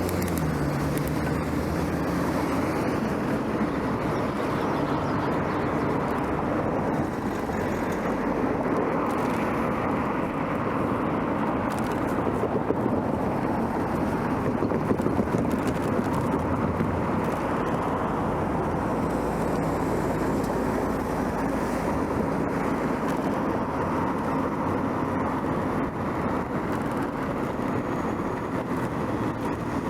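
Steady rushing noise of a bicycle ride: wind and rolling tyres, even throughout.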